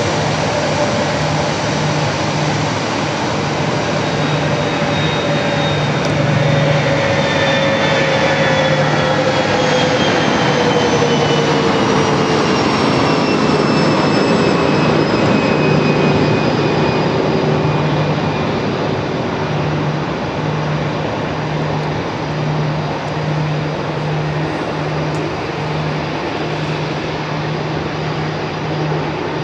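Jet noise from a Lufthansa Airbus A340-300's four CFM56 turbofans, swelling to a peak in the middle and then easing off. Engine whines glide down in pitch as it goes by.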